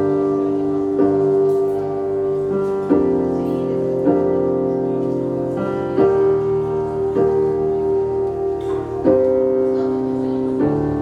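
Piano playing a slow introduction of sustained chords, a new chord struck every one to two seconds.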